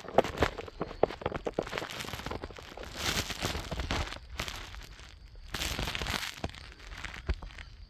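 Footsteps crunching and crackling on a trail, a quick irregular run of sharp steps, with two longer bursts of rushing noise about three and five and a half seconds in.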